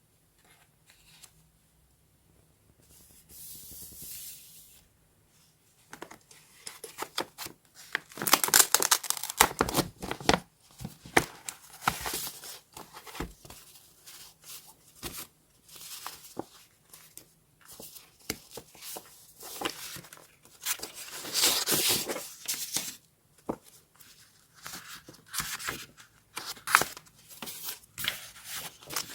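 Paper being torn by hand in a series of irregular rips with crinkling. The first few seconds are quiet with a soft rustle, and the tearing starts about eight seconds in.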